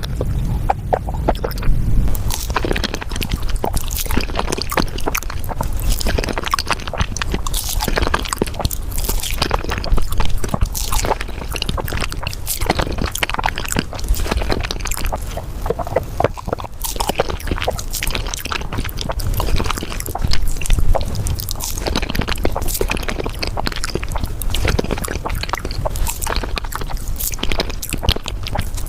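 Close-miked eating sounds (chewing and mouth noises) sped up five times, a dense, continuous run of quick clicks and crunches.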